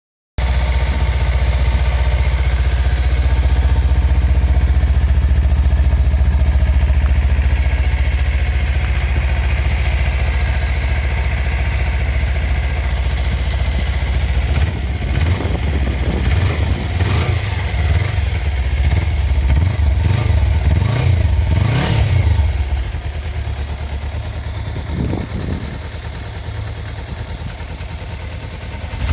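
Stock exhaust of a Kawasaki Versys-X 250's parallel-twin engine idling steadily, then blipped through a string of quick revs around the middle. After the revs it settles back to a quieter idle, with one more small blip.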